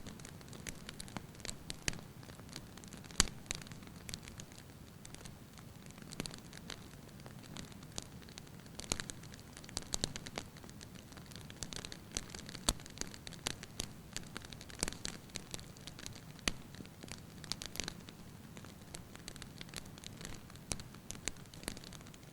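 Wood fire burning in a fireplace: irregular pops and snaps of crackling logs over a soft, steady low rumble of flames.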